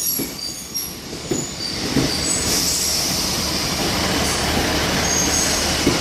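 Diesel multiple unit of three coupled Class 153 railcars moving slowly along the platform, wheels squealing in thin high tones with a steady low engine hum. Occasional knocks come as the wheels cross rail joints.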